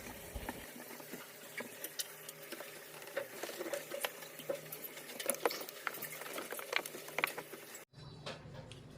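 Hand-scrubbing inside a refrigerator with a net scrubber and dishwashing bar: a run of small, irregular scratches, taps and clicks. It cuts off suddenly near the end, and a low hum follows.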